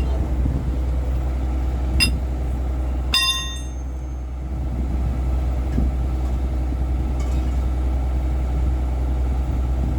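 An engine idling steadily, with two ringing metal clinks of a tool against metal about two and three seconds in.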